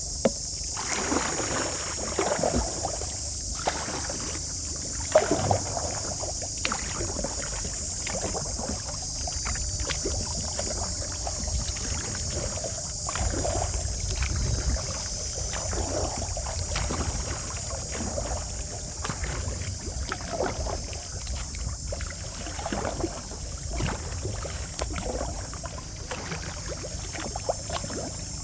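Kayak paddle strokes dipping and splashing in the water in a steady rhythm, about one stroke every second or so, over a steady high hiss.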